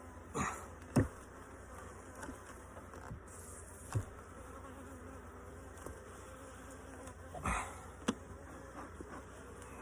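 Honeybees buzzing steadily around an open hive, with a few light knocks scattered through, the loudest about a second in, about four seconds in, and near the end.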